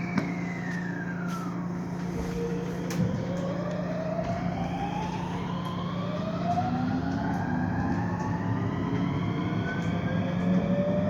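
Electric commuter train's inverter and traction motors whining as it pulls away: a tone falls briefly at the start, then several tones climb slowly and steadily in pitch as the train gathers speed, over a steady low hum.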